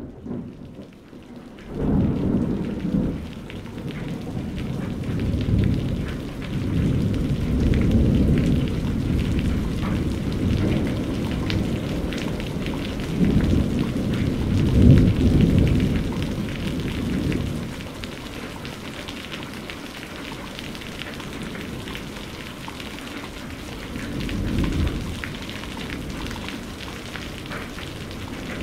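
Thunderstorm: steady heavy rain hissing, with rolling thunder rumbling under it in long swells, loudest about two, eight and fifteen seconds in, and again near the end.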